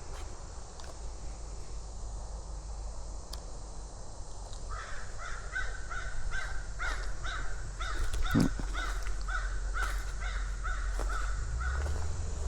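A crow cawing over and over, about two caws a second for some seven seconds, starting about a third of the way in. A single dull thump comes in the middle.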